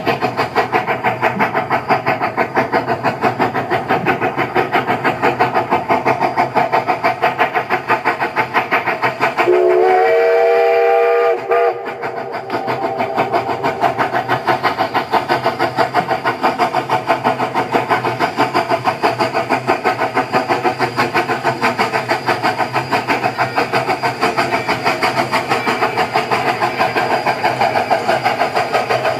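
An engine running steadily with a rapid, even beat. About ten seconds in, a horn sounds a chord for about two seconds, bending up slightly in pitch as it starts, then cuts off.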